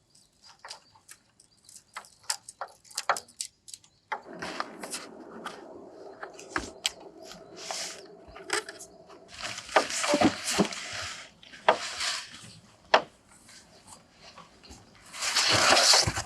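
Belongings being handled and packed up: scattered clicks and knocks, then rustling and crinkling in bursts, loudest about ten seconds in and again near the end.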